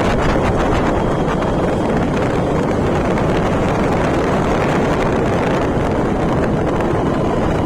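Steady wind rush on the microphone mixed with the running noise of a moving vehicle.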